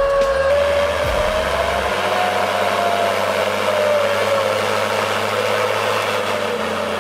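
A vehicle engine running hard and steadily, its pitch rising about two seconds in and then slowly easing back down.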